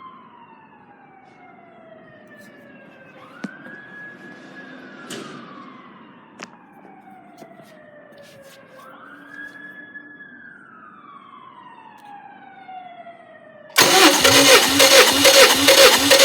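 Sweeping sound effects with slow falling and rising pitch glides, then about 14 seconds in a sudden loud burst of an engine starting and running with a regular pulse of about three or four beats a second.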